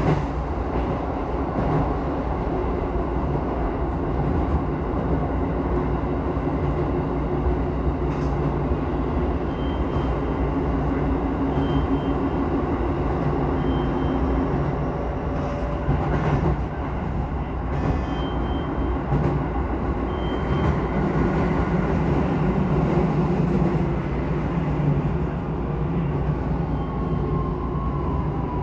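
Keisei 3000 series electric train running, heard from inside the passenger car: steady rumble of wheels on rail with the hum of its traction motors. Near the end a motor whine falls in pitch.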